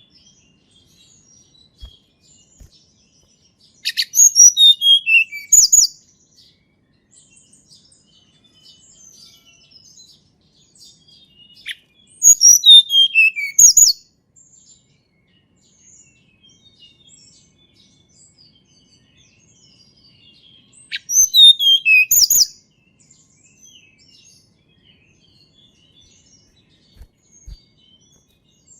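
A tledekan gunung singing: three short song phrases of about two seconds each, spaced several seconds apart. Each is a rapid run of high notes, some sliding downward in pitch. Faint soft chips fill the gaps between phrases.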